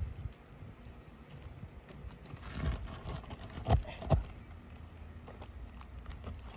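Roofing tools working a nail out from under an asphalt shingle: a short scrape, then two sharp knocks about half a second apart a little past the middle, as a roofing hammer strikes a roof snake to pull the nail.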